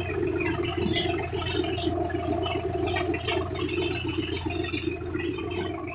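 Sonalika Sikander DI-47 RX tractor's diesel engine running steadily.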